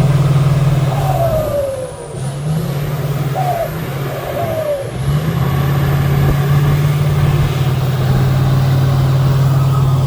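Competition trial truck's engine running hard and steadily, its drone dropping away briefly about two seconds in and again around five seconds before coming back up.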